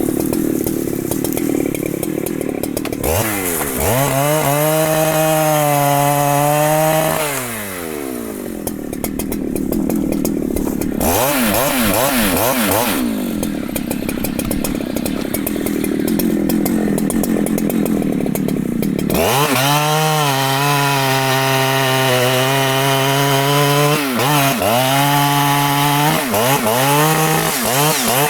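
Large two-stroke Husqvarna chainsaw cutting wood. It revs up to full throttle about three seconds in and holds there for a few seconds, then drops back and runs at lower speed. About two-thirds of the way through it revs up again and holds at full speed, with brief dips, to the end.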